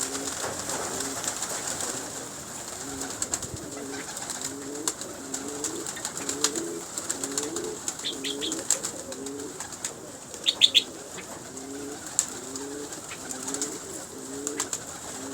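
Domestic pigeons cooing over and over, a low rolling coo repeating about once a second. A few short high chirps come in about eight and ten and a half seconds in.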